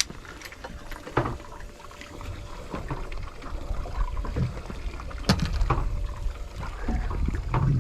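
Water sloshing and lapping against a small boat's hull, with a couple of sharp knocks, the loudest about five seconds in.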